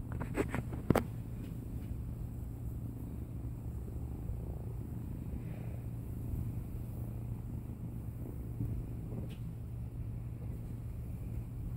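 Kitten purring, a steady low rumble, with a few sharp knocks about a second in.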